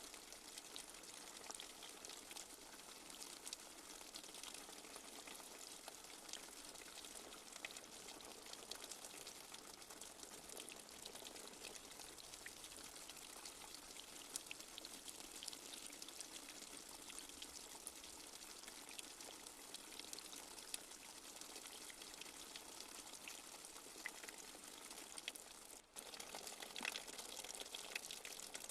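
Light rain falling steadily as a dense patter of small drops. Near the end it drops out for an instant, then comes back a little louder with more distinct drips.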